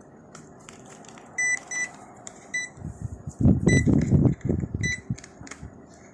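ATX power-supply tester giving five short high beeps as it is hooked up, with loud knocking and clattering between about three and five seconds in.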